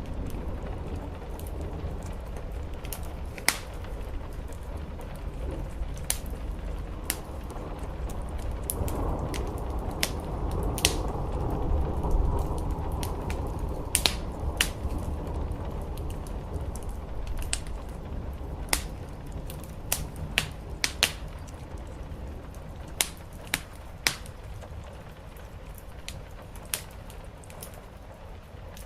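Wood fire crackling, with sharp pops scattered irregularly throughout, over a steady background of rain on a roof. The sound swells a little around the middle.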